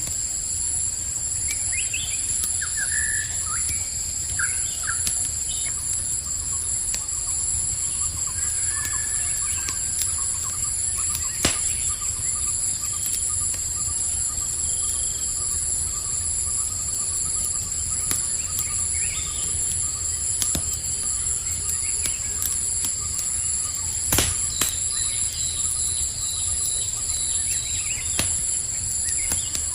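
Night forest ambience: crickets trilling steadily in a high pitch, with scattered short bird chirps and a few sharp crackling pops from a campfire over a low rumble.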